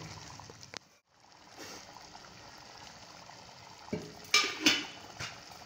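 Tomato and mutton masala sizzling in a karahi as ghee is added, with a few sharp metal clanks of the ladle against the pan about four to five seconds in. The sound briefly drops out about a second in.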